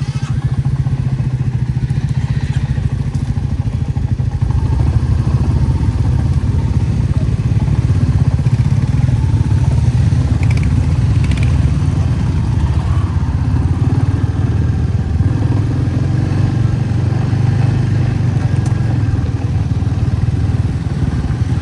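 Motorcycle engine running under way, a steady low throb that grows a little louder over the first few seconds.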